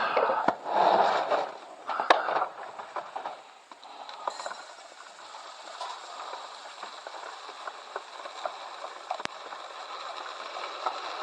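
Sunflower seed being scooped and poured into a bird feeder: loud rattling rushes with a couple of sharp clicks in the first three seconds, then a fainter, steady crackly hiss with light ticks.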